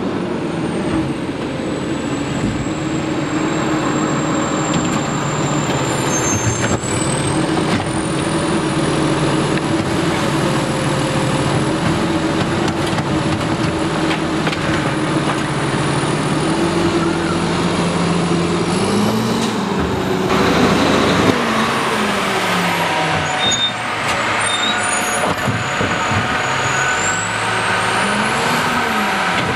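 Freightliner Condor garbage truck running, its engine humming steadily under a high thin whine. About two-thirds of the way in the revs rise and fall, and they do so again near the end.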